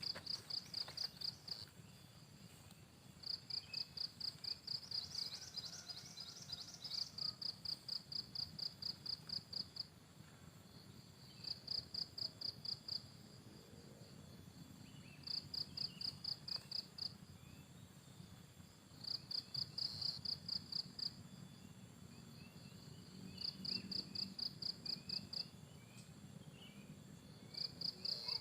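A cricket calling in pulsed trills, evenly spaced high chirps in bouts of one to several seconds with short pauses between, while faint small bird chirps come and go.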